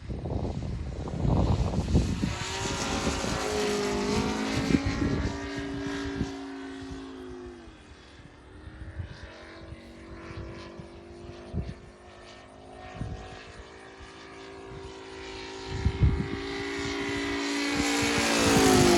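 ASP 400 radial glow engine on a model Yak 55 aerobatic plane running in flight, a steady pitched drone. About seven seconds in its pitch drops and it grows quieter as the plane moves away, then near the end it climbs in pitch and loudness as the plane comes back in, with scattered low thumps throughout.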